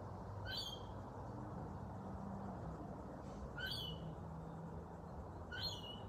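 A bird calling: three short, sharp calls about two and a half seconds apart, over a steady low background rumble.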